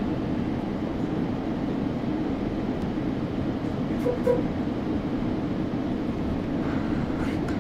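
Steady rumble of a GO Transit passenger train running along the track, heard from on board, with a short double tone about four seconds in.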